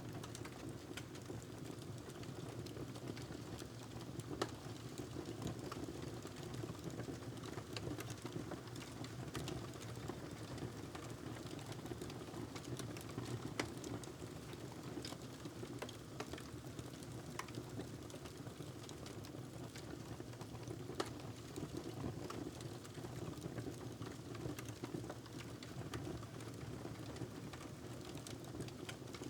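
Wood fire crackling in a fireplace: a steady low rush of flame with frequent sharp snaps and pops, a few of them louder than the rest.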